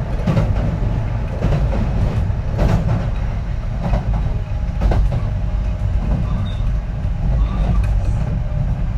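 Kintetsu 3220-series electric train running along the line: a steady rumble of wheels on rail, with irregular clacks from rail joints and track.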